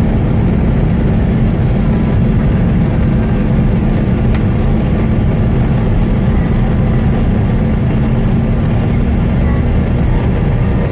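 Steady cabin noise inside a Bombardier CRJ200 regional jet: an even, loud rush of airflow and the rear-mounted turbofan engines, with a steady low hum.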